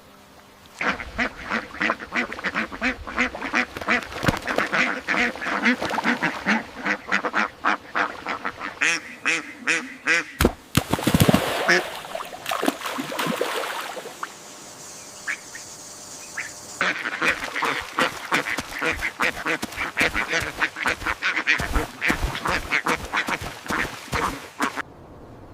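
Ducks quacking, many rapid overlapping calls at several a second. About halfway through comes a loud, noisy burst lasting a second or so, and after a sparser stretch the quacking picks up again.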